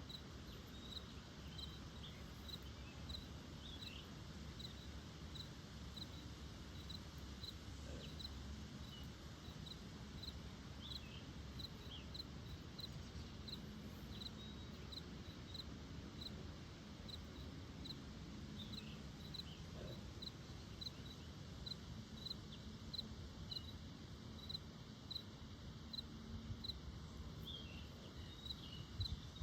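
Quiet outdoor ambience: a high, even chirp repeating about every three-quarters of a second, a few short irregular squeaks, and a low rumble.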